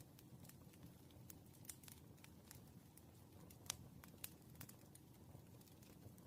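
Faint study sounds of a pen on paper: scattered light ticks and taps, one a little louder just after halfway, over a low room hum.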